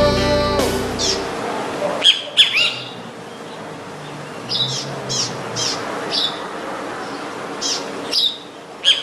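A song ends about a second in, and a bird then gives short, sharp, high calls that sweep downward, in clusters of two or three, repeated every second or so.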